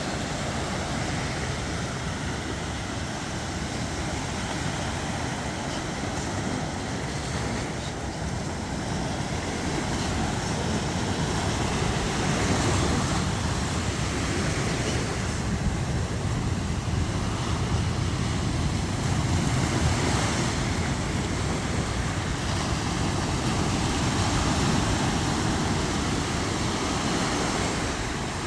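Steady rushing noise of wind and surf, swelling and easing every few seconds.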